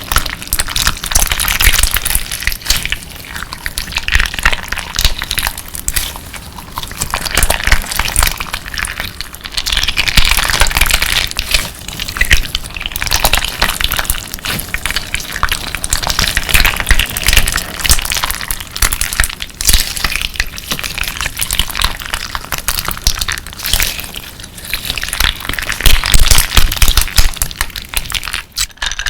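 Hands squeezing and kneading clear slime mixed with colourful crystal pieces, giving a steady stream of wet crackles, pops and crunches.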